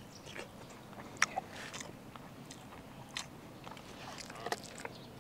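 A man quietly chewing a mouthful of cooked carp from the bony Y-bone section: soft, wet mouth smacks and scattered short clicks, a few of them sharper.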